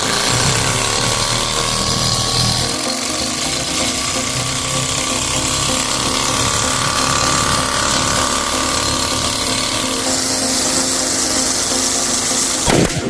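A small desktop model engine running with a loud, steady, rattling buzz.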